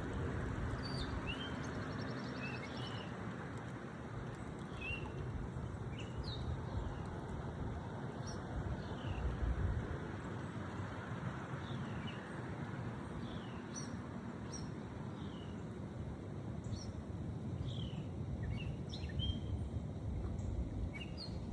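Birds calling: short chirps that fall in pitch, repeating every second or so, over a steady low rushing noise.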